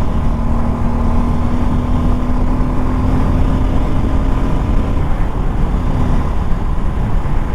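Motorcycle riding at highway speed: steady engine hum under heavy wind rumble on the helmet-mounted mic, with a steady drone in it that fades out about five seconds in.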